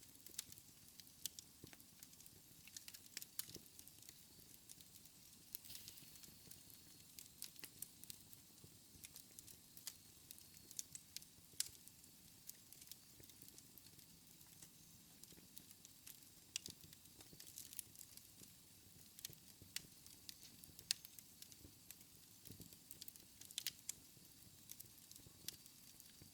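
Fire burning in a fireplace: irregular crackles and pops, a few a second, over a faint steady hiss.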